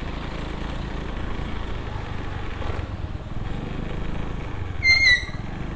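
Steady low rumble of road traffic, with a short high-pitched vehicle horn beep about five seconds in.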